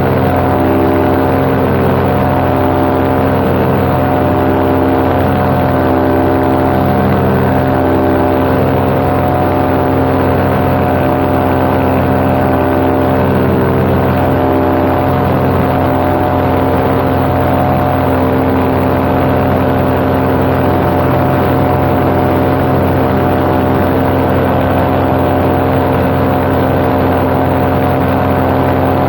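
Paramotor engine and propeller running steadily at cruise power in flight, a constant pitched drone.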